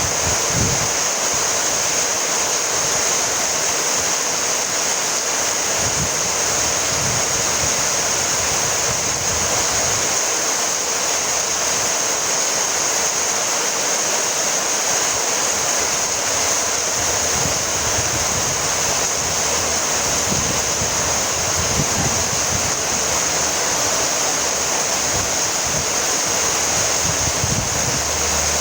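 Steady rainfall, an even unbroken hiss with a few faint low rumbles.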